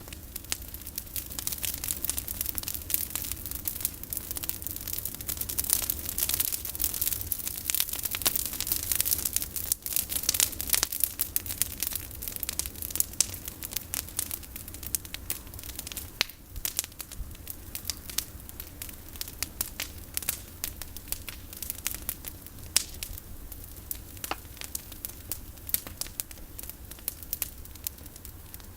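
Bonfire of pruned olive branches burning, with dense crackling and snapping that is busiest in the first half and thins out later.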